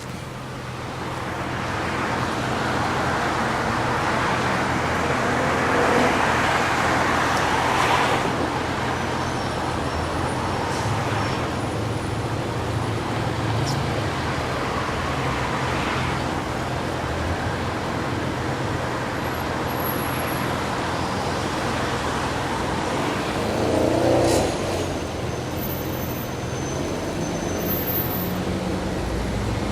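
Steady road and traffic noise of cars moving slowly on a city street: low engine hum under a haze of tyre noise, swelling briefly twice.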